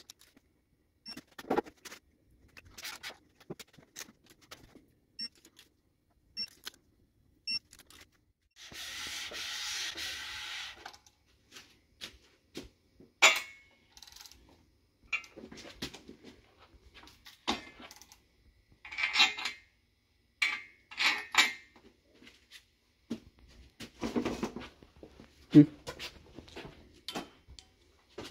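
Hand tools and metal engine parts clinking and knocking at intervals during engine block assembly. A steady hiss lasts about two seconds, nine seconds in, and the loudest metallic clanks come in the second half.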